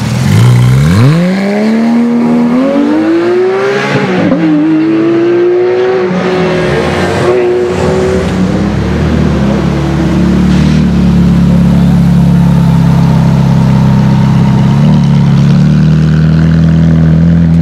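Supercar engine accelerating, its pitch climbing steeply, with a break near four seconds before holding a high steady note. From about ten seconds a lower, steady, loud engine note takes over.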